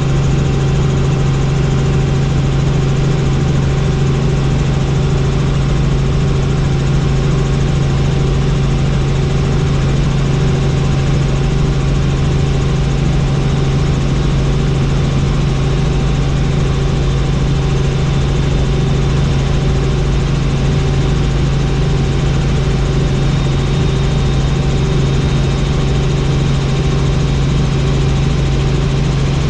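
Helicopter in flight: a loud, steady drone of engine and rotors, with a strong low hum and a faint, evenly pulsing beat that do not change.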